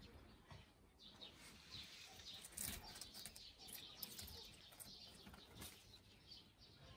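Faint chirping of small birds, many short calls, with a few soft scratchy clicks around the middle.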